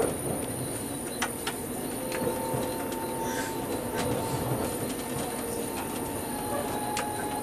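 Alstom Coradia Meridian ETR425 electric train heard from inside its driving cab, running at low speed over curved track and points: a steady rumble with a few sharp clicks as the wheels cross rail joints and switches. A thin high wheel squeal sounds on the curve, about two seconds in and again near the end.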